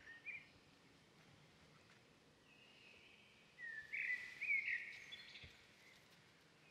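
Small birds chirping over faint outdoor background hiss: a short chirp near the start, then a louder run of quick chirps and short whistles between about three and a half and five seconds in.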